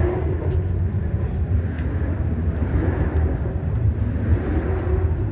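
Busy exhibition hall ambience: a steady low rumble under faint distant voices, with a few scattered clicks.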